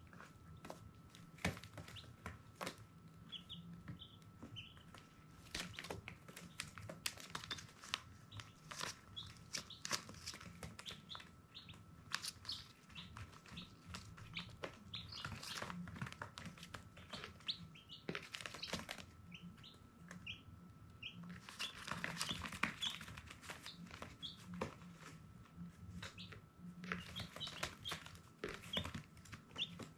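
Baby chicks peeping: many short, high chirps scattered throughout, mixed with frequent sharp clicks and bursts of rustling about two-thirds of the way in and again near the end. A faint steady tone and a low hum run underneath.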